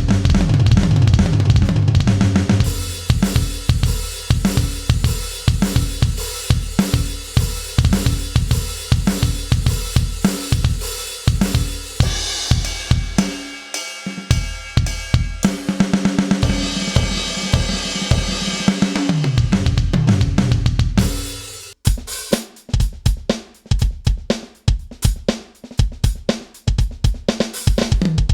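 KAT Percussion KT4 electronic drum kit's preset sounds played as a drum groove, with bass drum, snare, hi-hat and cymbals. The beat drops out briefly about three-quarters of the way through, then resumes more sparsely.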